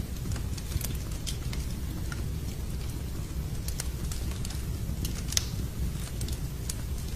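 Wood fire in a fireplace crackling: irregular sharp pops and snaps, a few louder ones, over a steady low rush.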